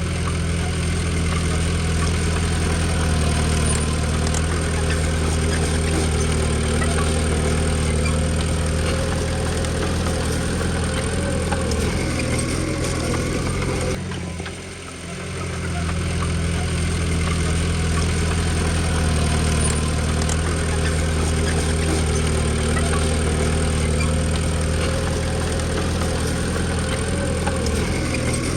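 Diesel engine of a small bulldozer or dump truck running steadily, with a brief drop in level about halfway through before it comes back up.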